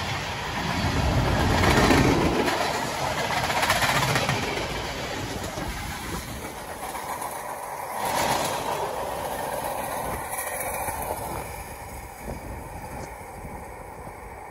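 Train rolling past on the track, loudest in the first few seconds with a few surges, then fading away toward the end.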